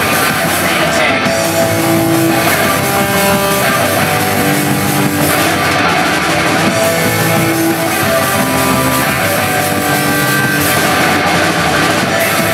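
Loud rock music with electric guitar and drums, playing continuously.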